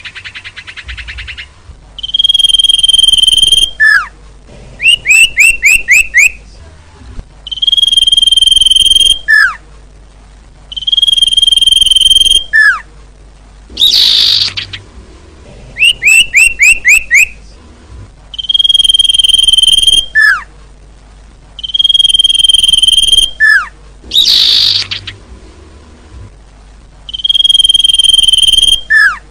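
Looped bird-lure recording of bird calls. It repeats a cycle: a steady whistle held about a second and a half, a short falling note, then a quick run of five or six falling chirps. Twice there is a harsh, scratchy burst.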